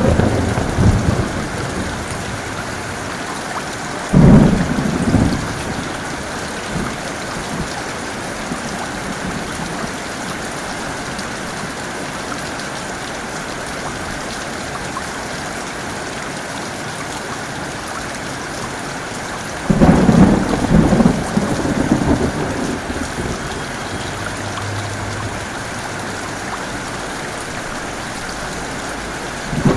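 Steady heavy rain, with thunder breaking out suddenly twice: a clap about four seconds in and a longer peal about twenty seconds in, each rolling away over a few seconds. At the very start the tail of an earlier clap is fading out.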